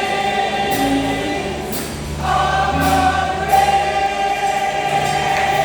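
A choir singing a slow hymn-like piece in long held chords over a low bass line, with a brief break between phrases about two seconds in.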